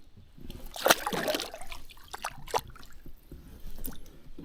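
Water splashing as a small Murray cod is released back into the river, with a louder splash about a second in and a few light knocks after it.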